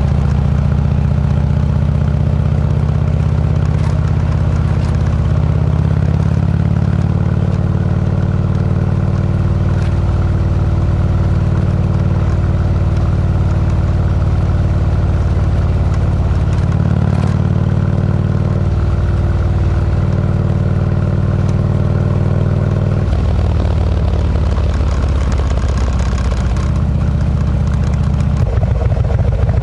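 Harley-Davidson V-twin engine running through a Kesstech exhaust as the motorcycle is ridden: a steady low exhaust note that shifts up or down in pitch several times as engine speed changes.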